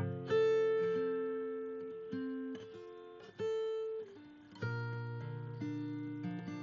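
Background music: acoustic guitar playing slow plucked notes and chords that ring and die away.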